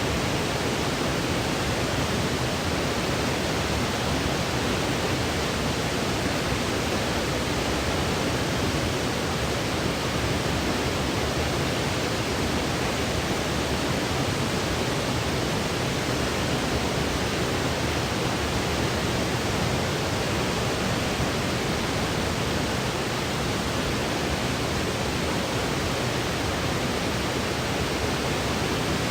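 Steady synthetic white noise: an even, unchanging hiss with its weight toward the lower frequencies, cut off above about 8 kHz, played as a sleep aid for a baby.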